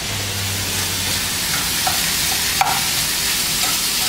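Bacon frying in a hot pan: a steady sizzling hiss with a few small pops, the clearest about two and a half seconds in.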